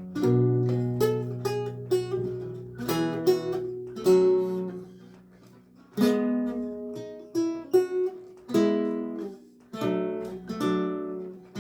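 Solo lute music: plucked chords and single notes that ring and die away, with a slow, unhurried phrasing. The sound fades almost to nothing about five seconds in, and a new phrase starts about a second later.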